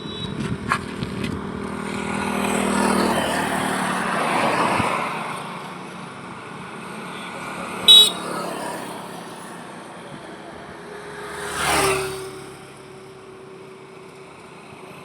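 Highway traffic: vehicles passing with engine hum and tyre noise, a short horn toot about eight seconds in, the loudest sound, and another vehicle swishing past around twelve seconds.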